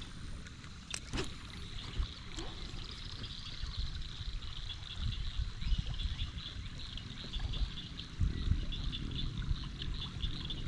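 Creek water trickling and lapping around a kayak, with a few sharp clicks about a second in. From about three seconds in, a high-pitched rapid pulsing runs in the background.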